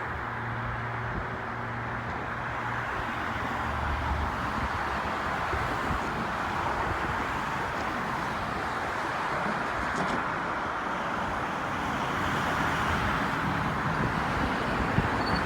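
Steady road-traffic noise from passing cars, swelling and easing gently, with a low engine hum in the first few seconds.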